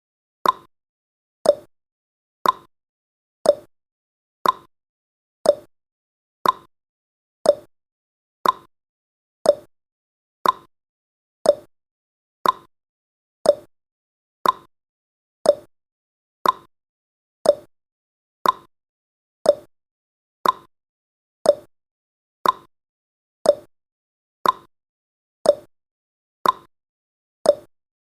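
Clock-ticking sound effect marking a countdown: a steady tick-tock, about two clicks a second, alternating a higher and a lower click.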